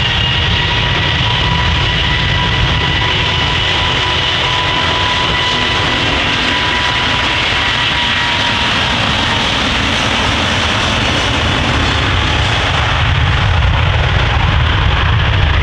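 Four jet engines of an Airbus A380-800 running at takeoff thrust: a loud, steady rumble with thin whining tones on top. The whine fades late on as the rumble grows a little louder.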